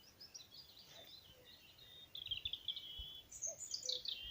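Faint songbird singing: quick high chirps and trills, with a phrase that falls in pitch near the end.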